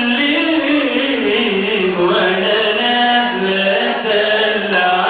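Male singer singing a slow Egyptian song melody, long held notes gliding from one pitch to the next.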